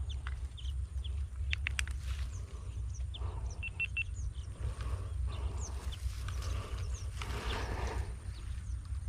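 Wild birds chirping in short falling calls, scattered throughout, over a steady low rumble. A few sharp clicks come at about a second and a half to two seconds in, and a quick run of three short beeps near the middle.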